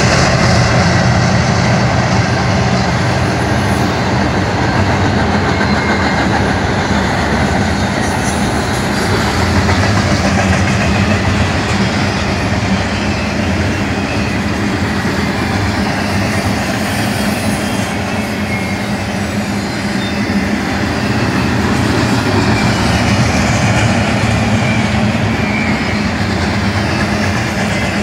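Double-stack intermodal freight train passing close by. The last of its GE diesel locomotives goes by in the first couple of seconds, then a steady loud rush of steel wheels on the rails as the container well cars roll past.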